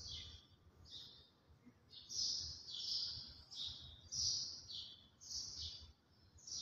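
A small bird chirping repeatedly: faint, short, high chirps that drop in pitch, a little over one a second.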